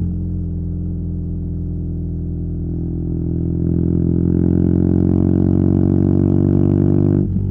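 BMW R nineT's boxer-twin engine through a Competition Werkes slip-on exhaust, on the move. It runs steadily, then gets louder and climbs a little in pitch under throttle from about three seconds in, and drops off sharply near the end as the throttle is closed.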